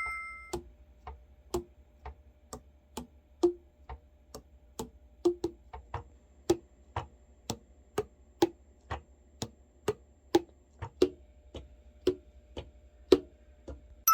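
Steady, even ticking, about two ticks a second, like a clock or metronome, with some ticks louder than others.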